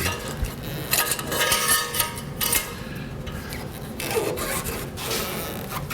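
Rasping, scraping strokes of metal parts being rubbed and worked against each other as a stuck part under the Jeep's rear end is forced loose.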